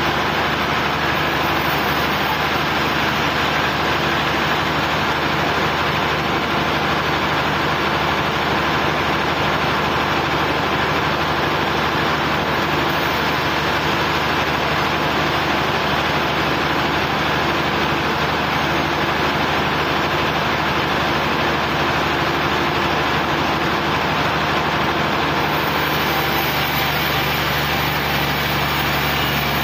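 Sawmill engine running steadily at a constant speed, with no let-up.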